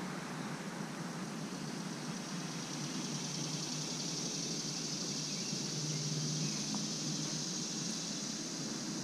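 Steady road traffic noise, with a high, even hiss above it that grows a little stronger partway through.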